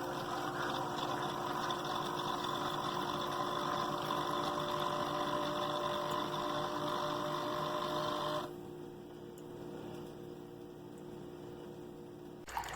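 Single-serve pod coffee maker's water pump running with a steady hum and whine, then cutting off about eight and a half seconds in, leaving a fainter hum.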